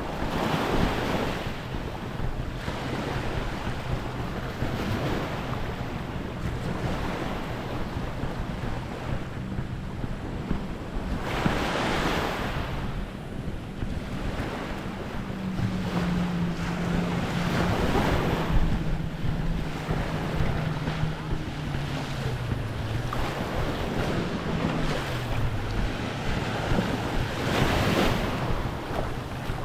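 Small waves wash onto the beach, swelling every several seconds, with wind buffeting the microphone. Under them a low engine drone runs steadily, rises in pitch about halfway through, then falls back down.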